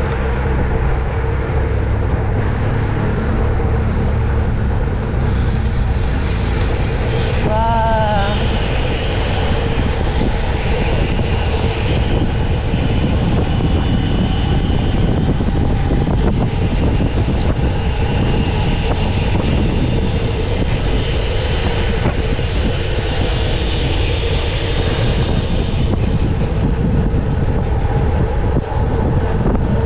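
Steady loud rumble of a bicycle being ridden fast on a road: wind rushing over the camera microphone together with tyre noise. A brief warbling tone rises and falls about eight seconds in.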